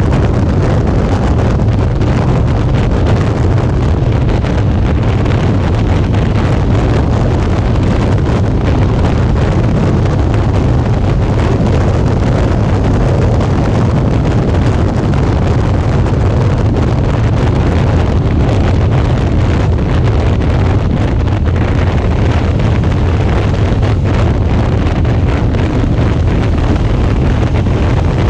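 Steady wind rushing over an action camera's microphone on a moving Suzuki V-Strom 650 motorcycle, a loud low rumble with the bike's running and road noise underneath.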